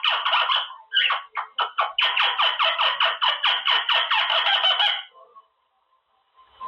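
Quaker parrot (monk parakeet) chattering: a fast run of repeated harsh calls, about five a second, that breaks off about five seconds in.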